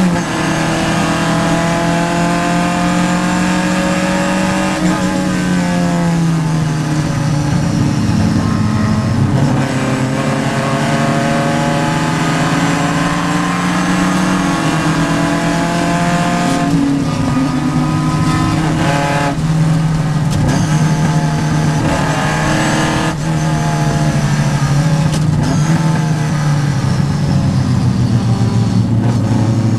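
Vintage Triumph race car's engine heard from inside the car, climbing in pitch under hard acceleration and falling away at gear changes and lifts about half a dozen times.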